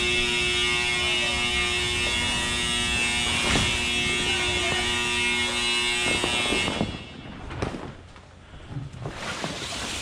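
A machine motor runs with a steady, buzzing hum and stops suddenly about seven seconds in. Rustling and a few light knocks follow.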